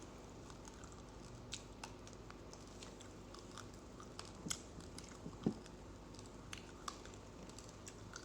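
Close-up chewing of uncooked rice grains: faint, scattered small sharp crunches, a few each second, the loudest about five and a half seconds in.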